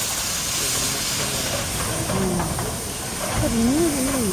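Steam hissing steadily from the C61 2, a 1948 Mitsubishi-built steam locomotive. People's voices talk over it from about halfway through.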